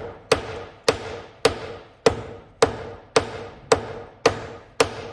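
Hammer blows on metal at a steady pace of just under two a second, each strike ringing briefly, as a stuck steering rack and subframe are knocked free from a car.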